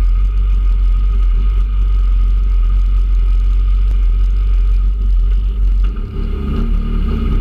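Peugeot 106 Rallye's four-cylinder engine running with the car stationary, a loud steady low rumble heard from inside the stripped cabin. About six seconds in, the engine note changes and the revs come up as the car gets ready to launch.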